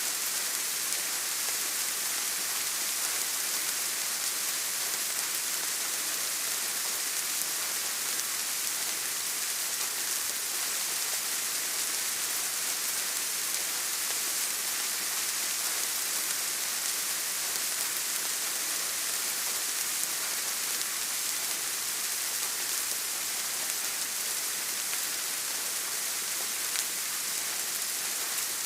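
Steady rainfall: an even, unbroken hiss of rain pattering on a surface, with no single drops or gusts standing out.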